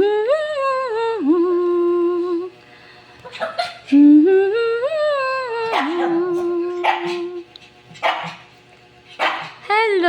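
A woman humming a tune in two long phrases, each gliding up and then holding a steady note, with short noisy bursts in the gaps.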